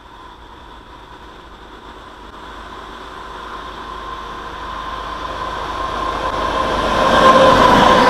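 Diesel-hauled passenger train approaching and passing close by. Its rumble grows steadily louder to a peak as the locomotive and first coaches go past near the end, with a steady whine running through it.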